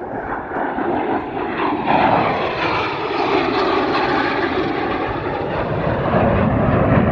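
Fixed-wing aircraft flying past, its engine noise growing louder.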